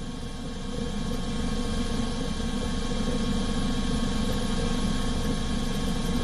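A steady engine drone with a constant hum, growing a little louder over the first two seconds.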